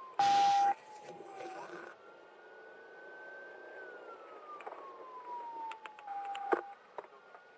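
Police car siren in a slow wail, rising and falling over a few seconds at a time, heard from inside the patrol car. Just after the start comes a short, loud burst of radio noise with a steady tone.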